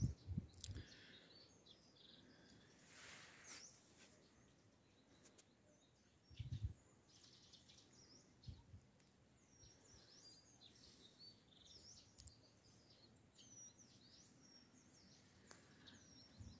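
Near silence with faint, scattered bird chirps, short calls repeated every second or so, and a soft low thump about six and a half seconds in.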